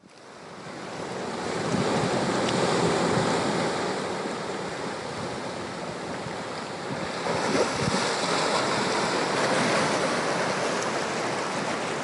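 Sea waves washing with wind buffeting the microphone. The sound fades in over the first two seconds and swells again about seven seconds in.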